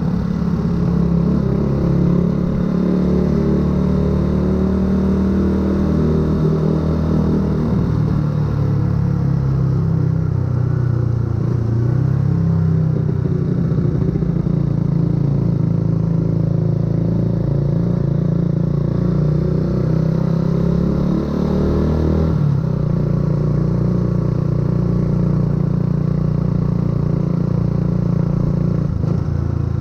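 Yamaha YZF-R125's single-cylinder four-stroke engine, with a full aftermarket exhaust, running steadily under way, its note wavering with the throttle. The note breaks sharply once, about three quarters of the way through.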